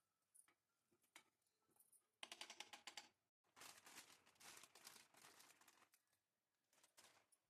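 Rapid light clicking and tapping of kitchen work, in two runs: one of about a second, then a longer one of about two and a half seconds, with a few scattered single clicks around them.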